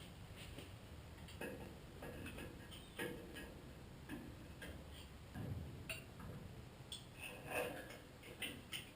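Irregular light clicks and knocks of hand work on the truck, with a duller thump about five and a half seconds in and the loudest knock about seven and a half seconds in.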